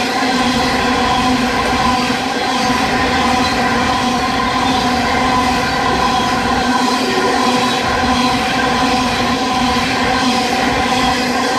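Train running at speed: a steady, loud rail rumble with a constant hum of a few fixed tones.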